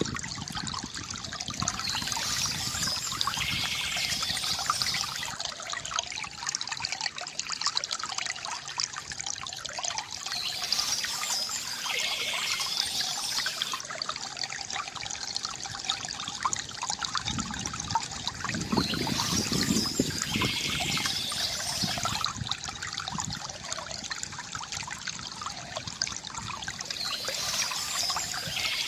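Water trickling and splashing steadily from a bamboo fountain, with short spells of bird chirping that come back about every eight or nine seconds.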